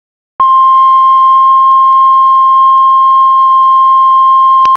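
Heart monitor flatline: one long, unbroken beep at a single steady pitch, starting about half a second in and cutting off suddenly near the end. It is the continuous alarm tone a patient monitor gives when no heartbeat is detected.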